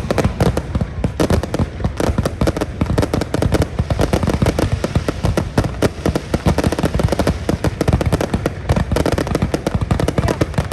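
Aerial fireworks going off in a rapid, continuous barrage of bangs and crackles, many per second.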